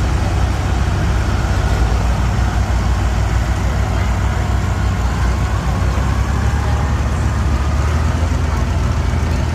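Tractor engines running steadily, a loud low engine note that holds without a break.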